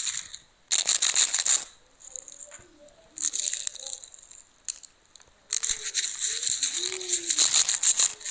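A small motorised mechanism running and rattling in three bursts: about a second, then about a second, then nearly three seconds, with a thin high whine.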